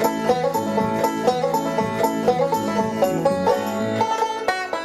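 Bluegrass banjo music: a quick, steady run of plucked banjo notes.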